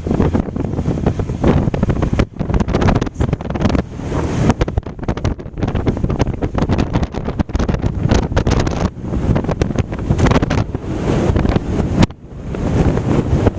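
Wind buffeting the microphone: a heavy rumble with crackling gusts that dip briefly about two seconds in and again near the end.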